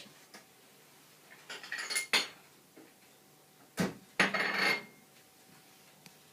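Tableware clattering: a utensil knocking and scraping against a dish in two short bursts about two seconds apart.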